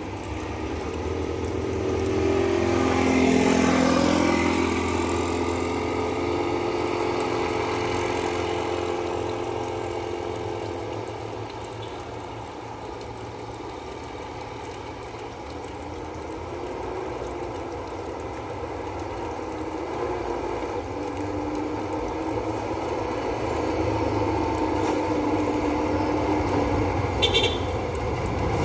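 Dump truck engines passing through a bend: a loud pass-by about three seconds in with the pitch falling, then engines running steadily, and another truck drawing closer near the end. There is a brief high-pitched tone just before the end.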